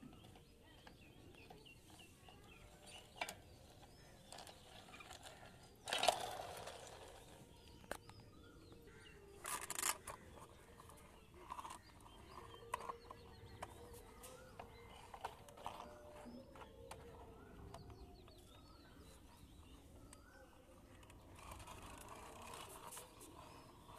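Faint outdoor ambience with small birds chirping now and then and scattered light clicks from toy cars being handled. Two brief, louder noisy bursts come about six and ten seconds in.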